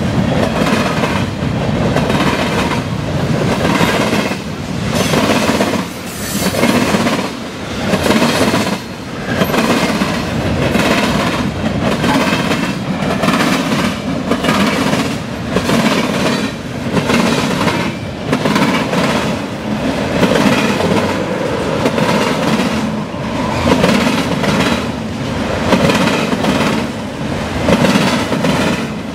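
Freight train's cars rolling past at speed, their wheels clattering in a steady rhythm over the rail joints and the diamond crossing.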